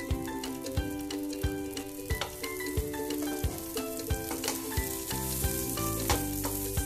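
Butter sizzling on a hot iron tawa as masala pav toasts in it, under background music with a steady beat of about one and a half strokes a second.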